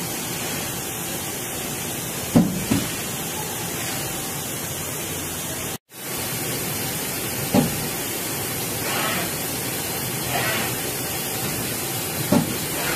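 Okuma Howa 2SP-V40 CNC lathe running with a steady hiss, a short dull thump coming about every five seconds.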